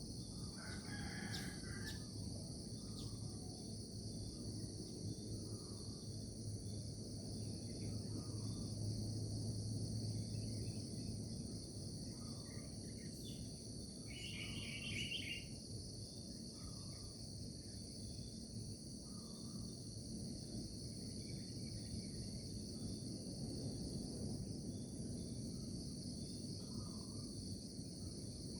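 Steady chorus of crickets and other insects, a high pulsing trill that never lets up, with soft short calls every couple of seconds. A bird calls briefly about a second in and again about halfway through. A low hum sits underneath during the first third.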